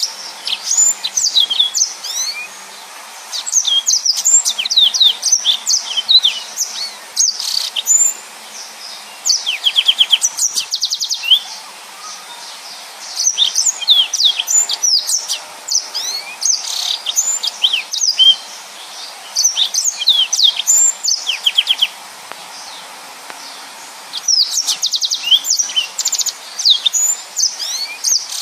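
Yellow-fronted canary singing in long, fast phrases of high twittering notes and quick rattling trills, with short pauses between phrases. This is the loud, busy 'gacor' song used as training audio for other cage birds.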